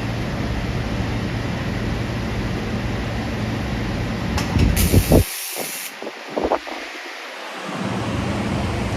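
Steady mechanical hum and hiss from a 2000-watt laser welding machine at work, with a few clicks and a brief burst of sharp hissing, like air or gas, about five seconds in. The low hum then drops away for a couple of seconds before returning.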